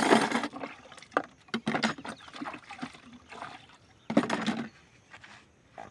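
Water splashing and sloshing in a basin, with scattered sharp clinks, from utensils being handled in washing water.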